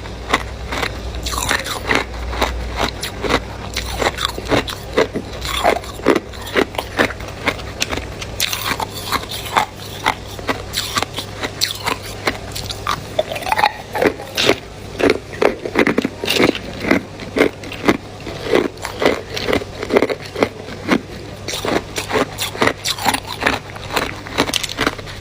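Close-up crunching of hard ice being bitten and chewed, a rapid, irregular run of sharp cracks and crunches.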